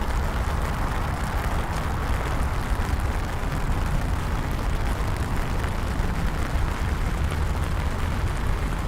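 Steady rain over a continuous low city rumble, mostly traffic, with no distinct events standing out.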